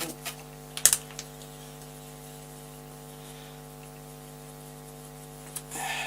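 A few metallic clicks and one sharp knock about a second in from a hand tap and tap wrench worked through a steel tee nut, followed by a steady electrical hum and a brief scrape near the end.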